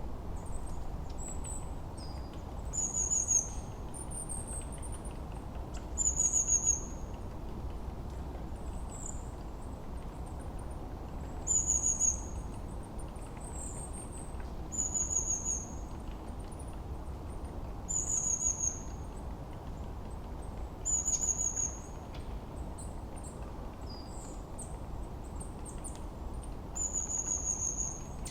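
Songbird birdsong: a short, high, downward-sliding chirping phrase repeated about every three seconds, with fainter chirps between, over a steady low hiss of background ambience.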